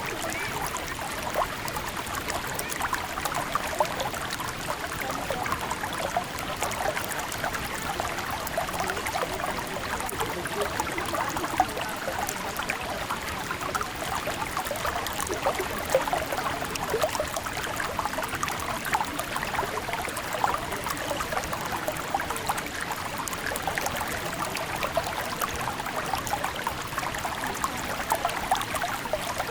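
River water running over stones, a steady babbling and trickling.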